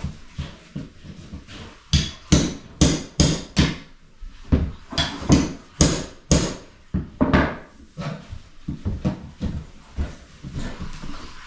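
Hammer blows in a steady run of sharp strikes, about two or three a second, with a short break in the middle and fainter knocks near the end.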